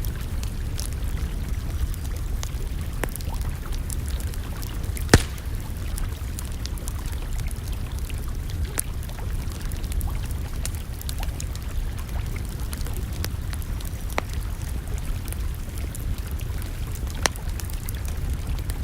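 Campfire crackling, with scattered sharp snaps and one loud pop about five seconds in, over a steady low rumble.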